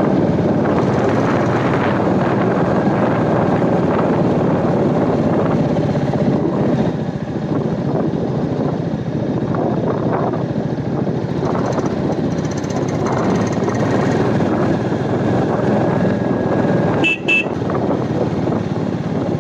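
Royal Enfield Meteor 350's single-cylinder engine running at cruising speed, mixed with steady wind and road rush. A short, high-pitched beep like a horn toot sounds once near the end.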